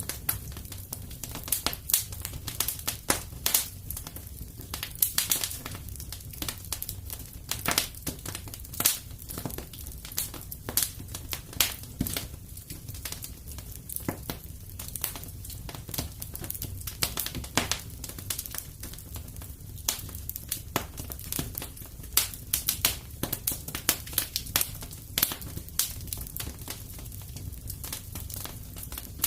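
Fire crackling in a fireplace: irregular sharp pops and snaps, sometimes several in quick succession, over a low steady rumble.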